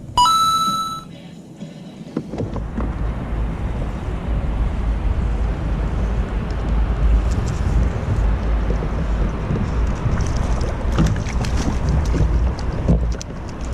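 Wind buffeting the microphone on open water: a steady low rumble that comes in about two seconds in and holds, with a few light clicks near the end. It is preceded by a brief high electronic tone lasting about a second.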